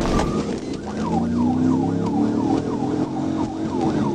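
Police car siren in fast yelp mode, its pitch sweeping up and down about three times a second, starting about a second in, over the pursuing car's engine and road noise.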